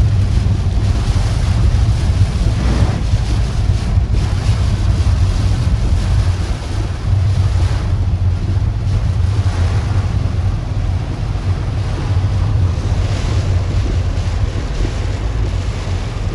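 Typhoon wind gusting hard against the microphone: a heavy rumbling buffet with a rushing hiss over it that swells and eases with the gusts.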